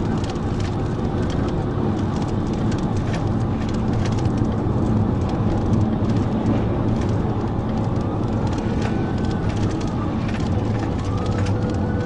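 Police car driving fast in a pursuit: steady engine and road noise, with a faint siren wail rising and falling twice near the end.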